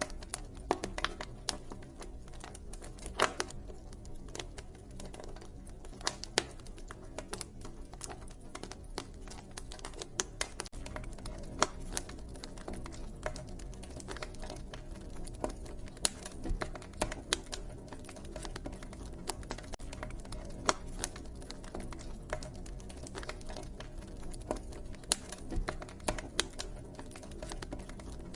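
Wood fire crackling, with irregular sharp pops of varying loudness over a steady low background.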